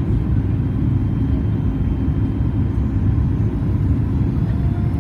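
Steady low cabin rumble of a Boeing 737 MAX 8-200 airliner, heard from inside the passenger cabin.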